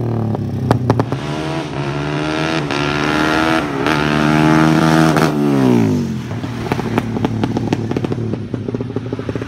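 Motorcycle engine revving through a DOS racing exhaust: its pitch climbs steadily for about five seconds, then falls back about six seconds in to an uneven idle with rapid crackles.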